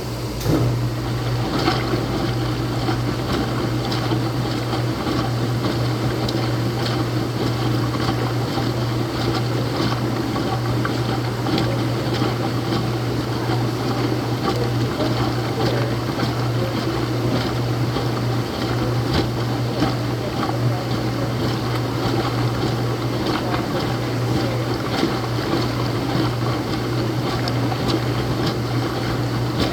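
Laundromat washing machine running: a steady hum with water noise over it, and a single knock about half a second in.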